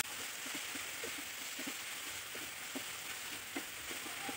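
Vegetables frying faintly in a pan: a low steady hiss with scattered soft ticks and crackles as a wooden spatula stirs them.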